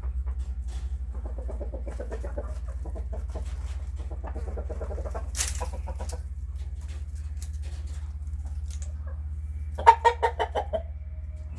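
Domestic fowl clucking in several runs of quick repeated notes, with the loudest, fastest run about ten seconds in, over a steady low rumble. A single sharp click comes about halfway through.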